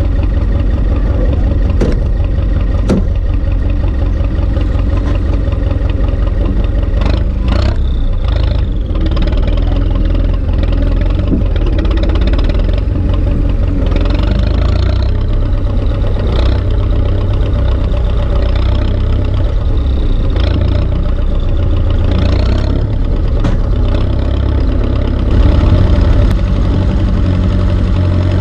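Turbocharged Ursus C-360 tractor's four-cylinder diesel engine running steadily, with a few brief knocks and clatters.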